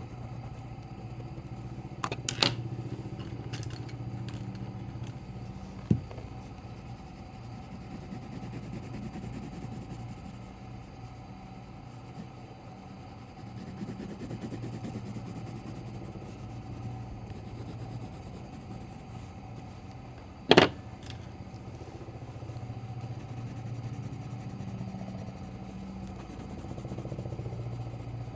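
A steady low hum with a few sharp clicks or knocks, the loudest about two thirds of the way through.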